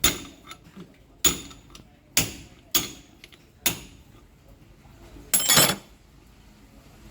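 Metal tools and parts clanking during differential gear repair work: five sharp, ringing metal knocks at uneven intervals, then a longer rattling clatter about five seconds in.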